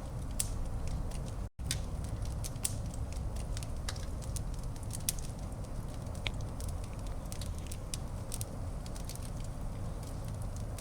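Wood fire burning in a fireplace: a steady low rumble of flames with irregular sharp crackles and pops from the burning logs. The sound cuts out for an instant about a second and a half in.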